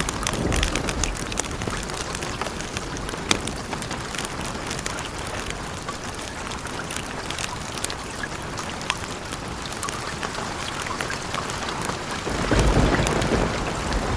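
Steady rain with scattered sharp ticks. A low rumble of thunder swells up about two seconds before the end.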